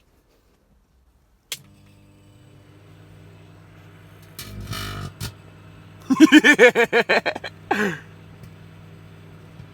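Microwave oven switched on with a click, then running with a steady mains hum. About halfway there is a short rushing burst, followed by a louder run of rapid pulses lasting about two seconds.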